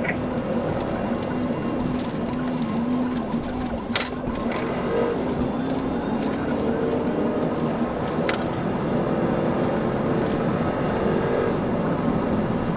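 Steady engine and road noise inside a patrol car driving at speed in a pursuit, with a low engine hum and two sharp clicks a few seconds apart.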